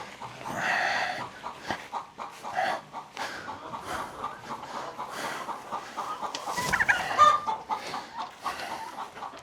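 Domestic fowl clucking in short repeated calls, with one louder, longer call about seven seconds in.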